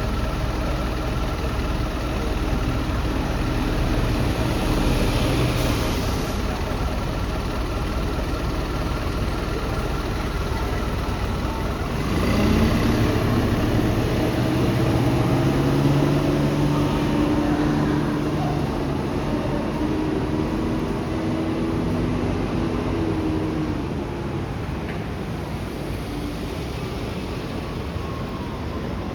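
City bus diesel engine running. About twelve seconds in it gets louder with a brief rise in pitch, then runs steadily, easing off a little near the end.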